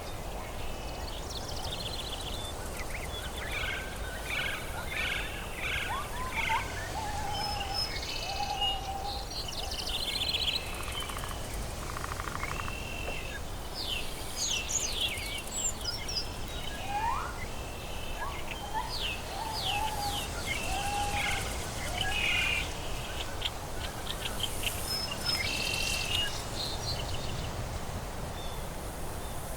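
Tropical forest ambience: several birds calling and chirping, with short repeated chirps and whistled notes, some sliding in pitch, over a steady background hiss and low rumble.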